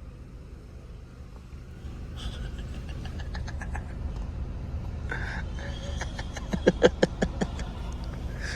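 Low steady rumble of a car engine idling, with scattered clicks and a quick run of loud knocks about seven seconds in.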